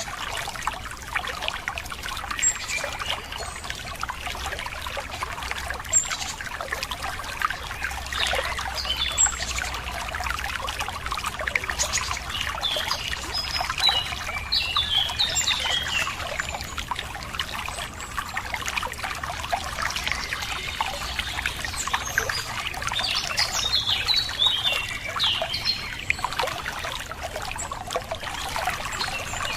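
Running water trickling and splashing steadily, with small birds chirping over it in short bursts, busiest around the middle and again near the end.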